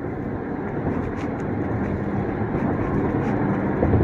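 Steady road noise of a car driving at highway speed: tyre and engine rumble.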